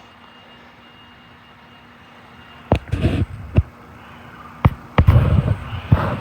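Sharp clicks and knocks of hand tools and car parts being handled, a few single strikes and then a cluster of clunks near the end, over a faint steady hum.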